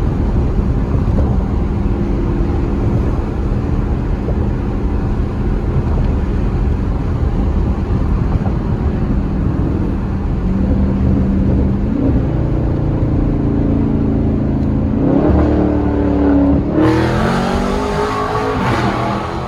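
2019 Dodge Charger Scat Pack's 392 Hemi V8 through an exhaust with the mid mufflers deleted, steady at first, with the engine note climbing twice past the middle. In the last few seconds a hard acceleration makes it louder and harsher as the revs rise.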